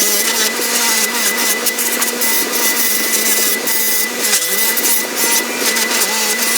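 Motor-driven wire wheel running: a steady motor hum that sags in pitch twice as the rusted steel clamp part is pressed against it, under the scratchy hiss of the wire bristles scouring the metal.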